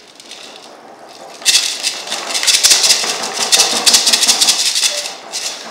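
Hand-shaken percussion shakers such as maracas played by children, loud and busy from about a second and a half in and easing off near the end, a rattling imitation of rain.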